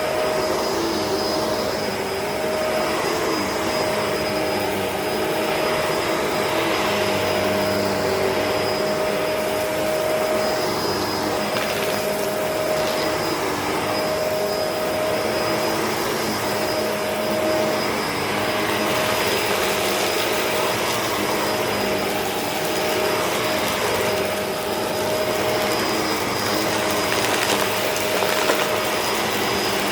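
Bissell CleanView Allergen upright vacuum running steadily over a dirt- and grass-covered carpet, its motor whine holding one pitch over a constant rush of air and brushroll noise.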